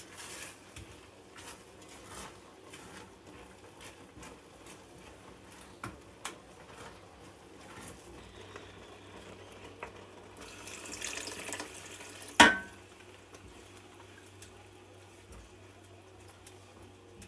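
Kitchen or sink handling sounds: scattered light clicks and knocks, a short run of water about two-thirds through, then one loud, sharp clink of a pot, lid or dish that rings briefly.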